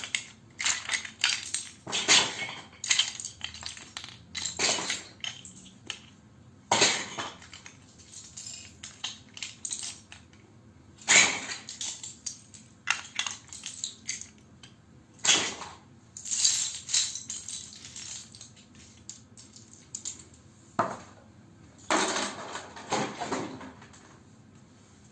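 Plastic Lego bricks clattering and rattling against each other in irregular bursts of sharp clicks, with a few longer rattles, the loudest about 11 seconds in.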